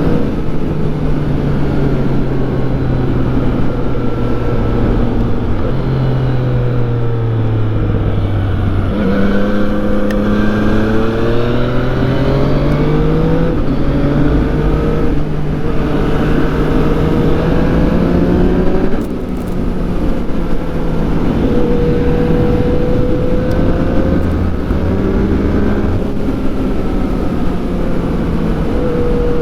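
2014 Yamaha FZ-09's 847 cc three-cylinder engine on the move, its pitch climbing with throttle and dropping back several times as it changes speed and gear.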